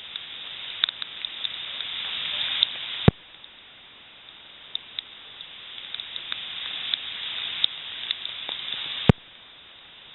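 Rain pattering steadily on leaves, with many individual drops ticking sharply. A single sharp click comes about 3 seconds in and again near the end, each followed by a quieter stretch.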